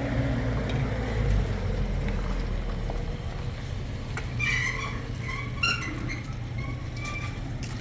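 A steady low motor rumble, joined from about four seconds in by a series of short high-pitched chirps.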